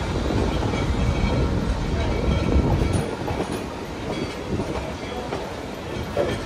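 A 3 ft narrow-gauge train rolling along, heard from aboard an open passenger car: a steady low rumble of wheels on the rails with scattered clacks.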